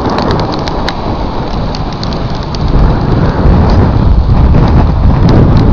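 Strong wind buffeting the camera microphone, with scattered sharp ticks of sleet pellets striking it. The wind gets louder about two and a half seconds in.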